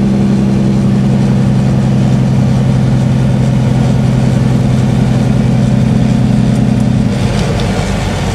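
Truck engine droning steadily at highway speed, heard from inside the cab over road noise. About seven seconds in, the engine note changes and eases slightly as the driver backs off the throttle to slow down.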